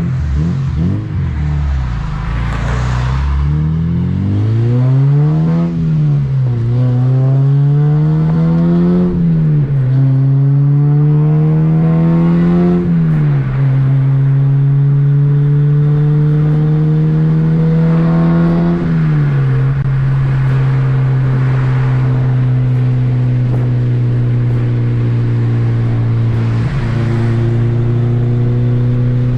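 2007 Honda Civic Si's 2.0-litre K20 four-cylinder engine accelerating hard through the gears. The pitch climbs and then drops at each of four upshifts, about 6, 9, 13 and 19 seconds in, with each gear held longer than the last. After the last shift it settles to a steady cruise.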